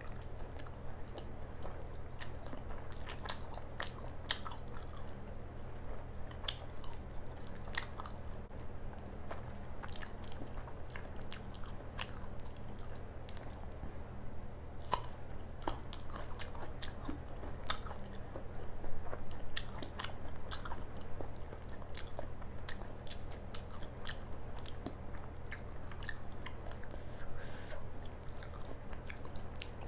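Close-miked eating: a person chewing and biting mouthfuls of paratha with curry, with irregular wet mouth clicks and crunches throughout and a louder stretch of chewing a little past halfway. A steady low hum runs underneath.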